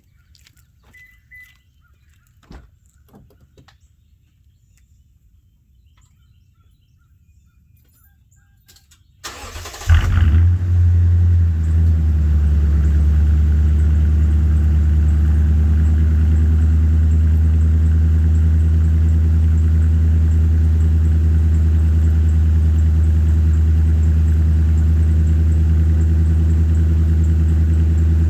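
A few faint clicks, then about nine seconds in the 2012 Toyota Tundra's 5.7-liter V8 cranks and starts and settles into a loud, steady idle through Flowmaster Super 10 mufflers on a true dual exhaust.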